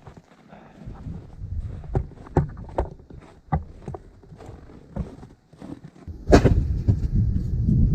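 Scattered wooden knocks and clatter, as of split firewood being handled and set down, then a loud thump about six seconds in followed by a steady low rumble.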